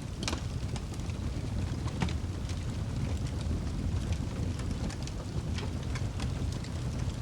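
Wood fire burning in a fireplace: a steady low rumble of flame with frequent sharp crackles and pops, a louder pop near the start and another about two seconds in.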